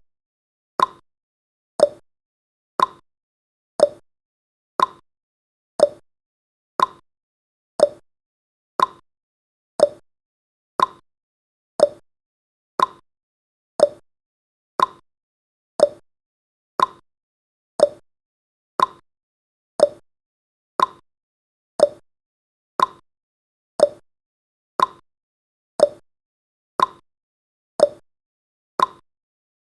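A countdown timer's ticking sound effect: a short, sharp clock-like tick about once a second, evenly spaced, marking each second counting down.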